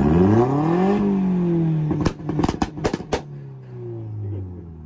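Car engine revved hard, climbing in pitch for about a second and then easing off. As it drops back, a quick string of sharp exhaust pops and backfires cracks out over about a second, and the revs then settle lower and fade.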